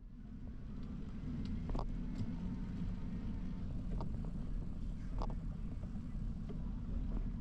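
Steady low rumble of wind and riding noise on a bicycle-mounted action camera's microphone while cycling, with a few sharp clicks or rattles scattered through it.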